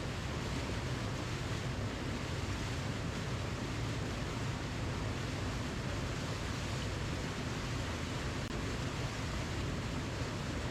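Waterfall: a steady, unbroken rush of falling water with no distinct splashes, heaviest in the low end.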